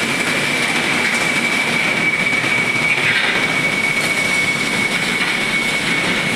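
Heavy traffic of container trucks passing on a wet road, a steady noise of tyres and engines with a high-pitched whine held throughout.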